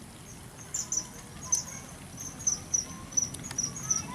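Short, high-pitched chirps repeating irregularly about two to three times a second, starting just under a second in, over a faint low background noise.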